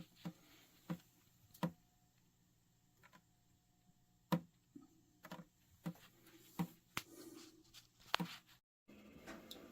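Scattered light clicks and knocks, about nine at irregular spacing, from things being handled, over faint room noise; the sound drops out briefly near the end.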